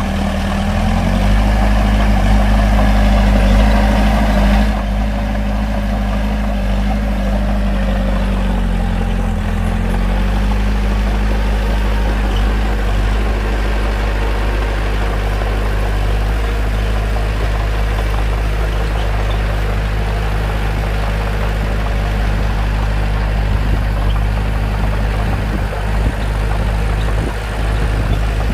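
Bulldozer's diesel engine running steadily under work, its pitch sagging briefly about a second in and again around nine to ten seconds in. It is louder and harsher for the first few seconds, then settles to an even drone.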